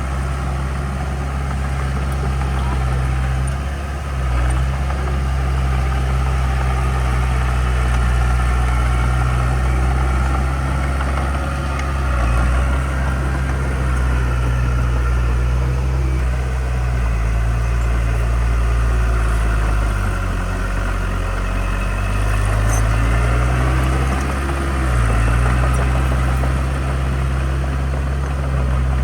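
Heavy diesel engine of earthmoving machinery running, its note dipping and rising again several times as the revs change under load.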